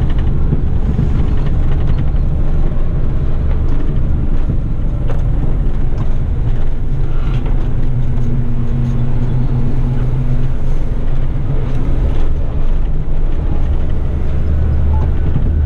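Heavy rigid truck's diesel engine running on the road, with a steady low drone and road noise. A clearer, steady engine tone stands out for a few seconds in the middle.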